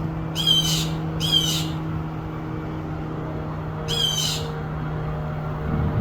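Small bird giving three short, rasping calls, each about half a second long, the first two a second apart and the third about four seconds in. A steady low hum runs underneath.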